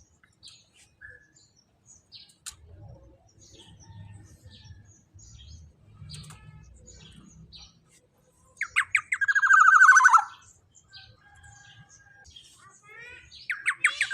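Black-naped oriole (kepodang emas) calling: faint scattered chirps, then about two-thirds of the way in a quick run of notes leading into one loud, drawn-out falling call. Another quick run begins near the end.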